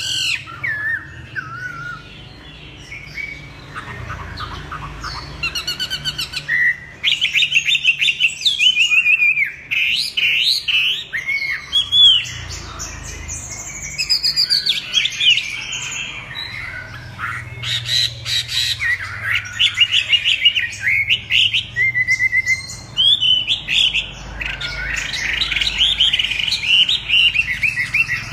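Chinese hwamei singing a long, varied song of fast whistled phrases and warbles with quick up-and-down slurs, broken by short pauses.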